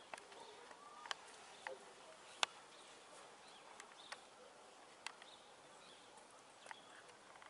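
Faint, quiet outdoor ambience with scattered short, sharp bird chirps, about eight of them spread through the stretch.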